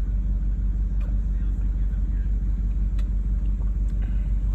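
Audi SUV V8 engine idling through a customized exhaust: a steady, loud, low rumble with a fast, even pulse, held at idle without revving.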